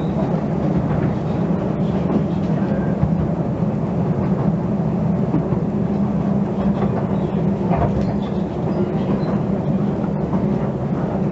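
A heritage narrow-gauge railway train running, with a steady low rumble and continuous rail noise.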